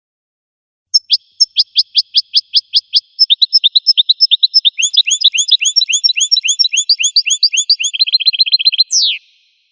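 A finch singing one long song phrase. Evenly spaced sharp notes, about four a second, quicken into a denser twitter of down-slurred notes, run into a fast trill, and end on a single falling note that cuts off.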